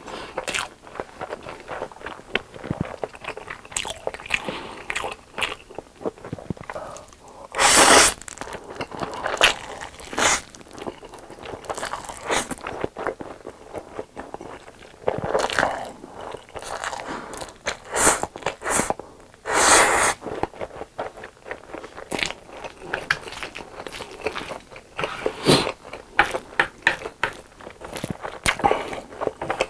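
Close-miked eating: a run of crunching bites and wet chewing, with several louder, longer noisy mouth sounds about 8, 15 and 20 seconds in.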